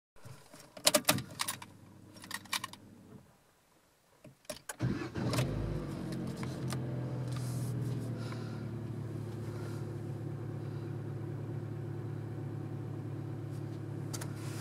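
Keys rattling and clicking in the ignition of a Vauxhall Corsa, heard from inside the cabin. About five seconds in the engine starts, flares up briefly and settles into a steady idle at about 1,000 rpm.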